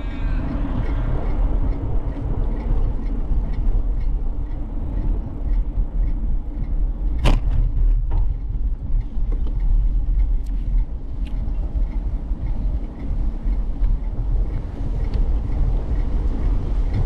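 Wind rumbling on the microphone of a camera riding on a moving bicycle, mixed with the ride's road noise, under a faint even ticking. A single sharp knock sounds about seven seconds in.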